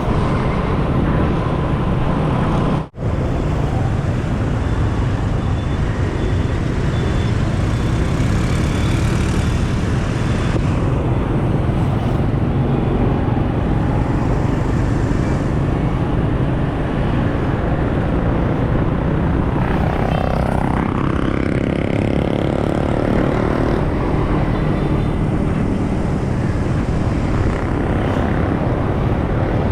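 Motorcycle under way on the road: a steady rush of engine, road and wind noise, heaviest in the low end. The sound drops out for an instant about three seconds in, and a short tone dips and rises again around twenty seconds in.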